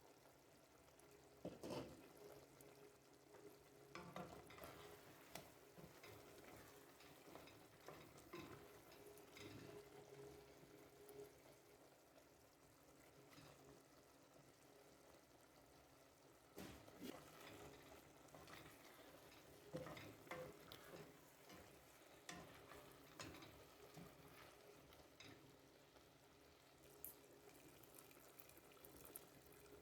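Faint cooking sounds: a utensil knocking and scraping against a pan in scattered clusters as food is stirred, over a faint steady hum.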